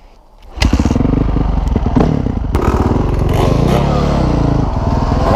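Dirt bike engine starting off hard about half a second in, then revving up and down repeatedly as it accelerates and shifts.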